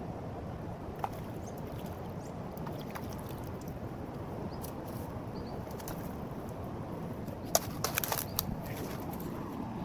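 Steady rushing of river water, with a single sharp click about a second in and a quick cluster of sharp clicks and taps near the end.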